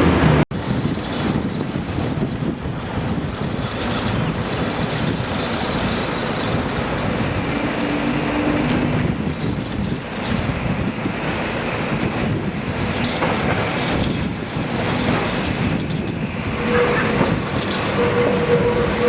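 Blackpool heritage electric tram running on its rails, a steady rumble with scattered clicks from the wheels on the track. A steady whine comes in near the end.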